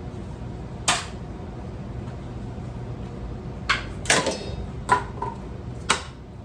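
Metal ceiling fan parts being struck and knocked about: five sharp, irregular clanks, the first about a second in and the rest bunched in the second half, one or two with a brief metallic ring.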